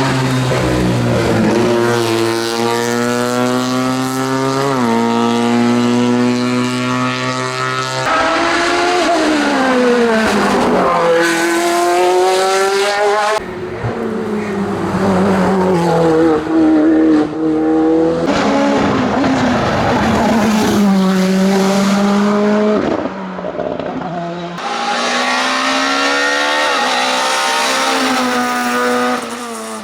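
Racing car engines at full throttle on a hillclimb. The note rises steadily and drops sharply at each gear change, and it falls away under braking and downshifts, across several short runs in a row.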